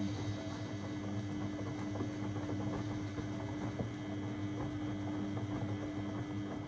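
Beko WMB 71643 PTE washing machine humming steadily, with water noise crackling over the hum.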